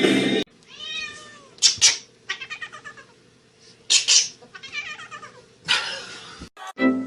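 A domestic cat meowing and yowling in a series of separate calls, some short and some drawn out, the loudest about two and four seconds in.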